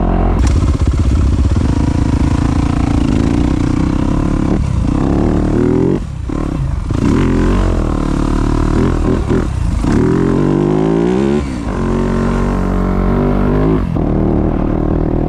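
Dirt bike engine under way on a trail, its pitch rising and falling as the rider works the throttle and gears, easing off briefly about six seconds in and again near twelve seconds.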